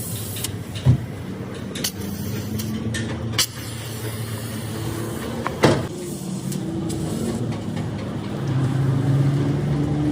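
A motor vehicle engine running, its pitch shifting and its level rising about 8.5 seconds in, with a few sharp knocks, the loudest about a second in and near the middle.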